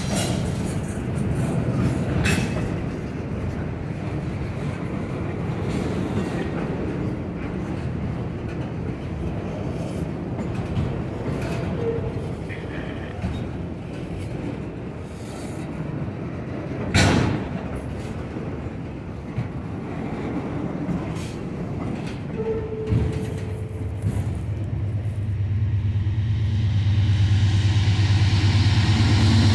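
Freight train cars rolling past, with steady wheel-on-rail noise, scattered clanks and a loud sharp clank about two-thirds of the way through, and brief wheel squeals. Near the end a low engine drone comes in and grows louder.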